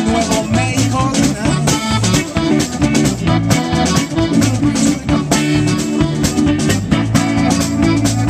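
Live band playing an instrumental passage with a steady beat.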